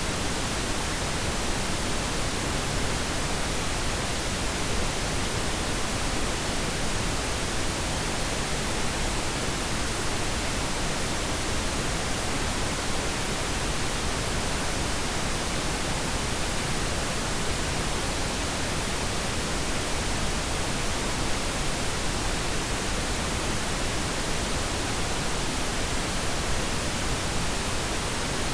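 Synthetic pink noise: a steady, even hiss that does not change.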